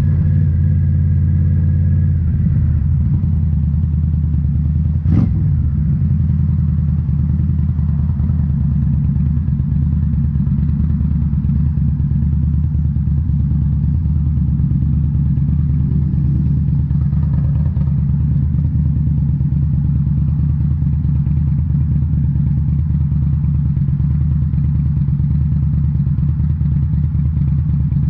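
2018 Indian Scout Bobber's liquid-cooled V-twin running steadily through Rinehart slip-on mufflers while riding. A single sharp knock comes about five seconds in.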